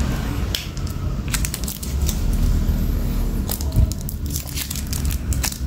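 Zippo lighters being handled: a scattered series of sharp metallic clicks and taps over a low steady hum.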